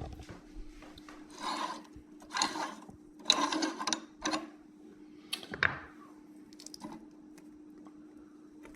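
Metal parts of an electric meat grinder's head being taken apart by hand: several short scrapes and clatters in the first six seconds, over a faint steady hum.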